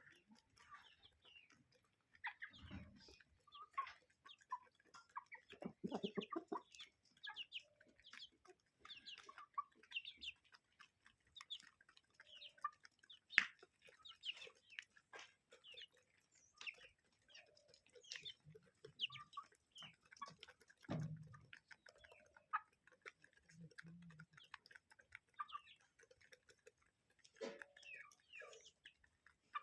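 Flock of chickens clucking, many short calls overlapping at a low level.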